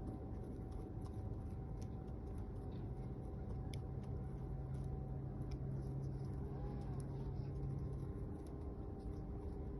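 Faint, short, high bird chirps scattered over a steady low rumble like distant traffic; a deeper steady hum joins the rumble from about three seconds in and drops away a little after eight.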